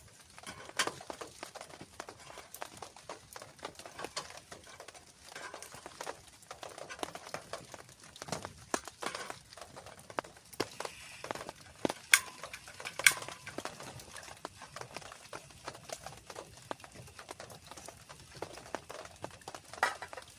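Rain pattering and dripping in uneven taps over a faint hiss, with two louder, sharper drops a little past the middle.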